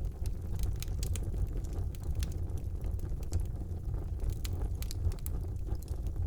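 Wood fire burning in a fireplace: a steady low rumble of flames with many sharp crackles and pops scattered through it.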